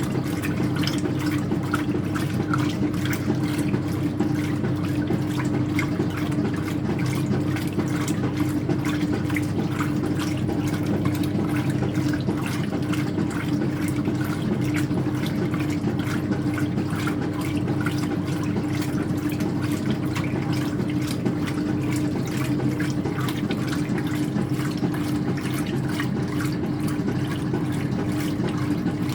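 Speed Queen top-loading washing machine running, with continuous water noise and a steady hum that hold unchanged throughout.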